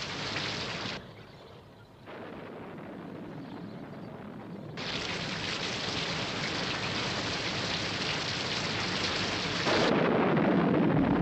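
Rain and storm noise, heard in blocks that change suddenly from shot to shot: quieter about a second in, louder from about five seconds in. A deep rumble, like thunder, swells near the end.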